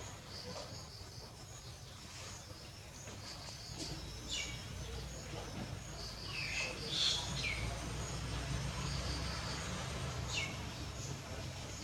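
A few short, high-pitched squeaky calls, each falling in pitch, over a steady high chirring like insects.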